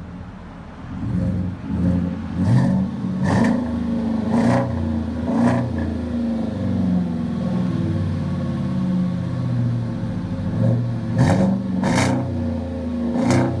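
2018 Chevrolet 1500 Z71 pickup engine through a Flowmaster true dual exhaust, idling and revved in short throttle blips: four in quick succession a couple of seconds in, and three more near the end.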